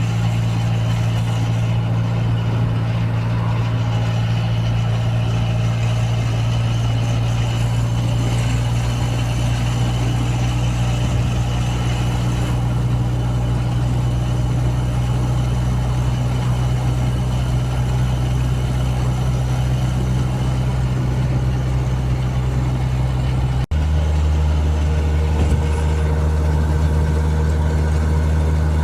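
Turbocharged Volkswagen Gol's engine running at a steady, unchanging speed with a low, even hum. About three-quarters of the way through the sound drops out for an instant and comes back at a lower, still steady pitch.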